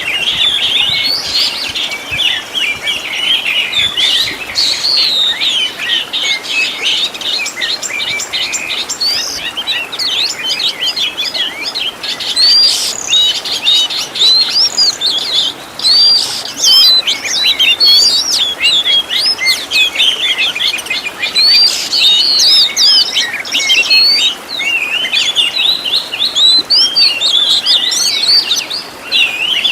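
Oriental magpie-robin (kacer) singing continuously: a dense, fast stream of varied whistles, chirps and trills, with its song filled out by phrases mimicked from other birds.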